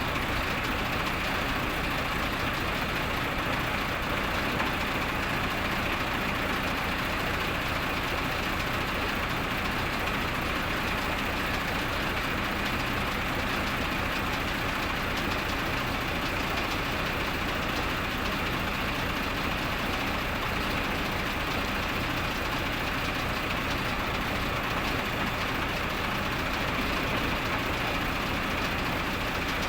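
An engine running steadily at constant speed, without a break.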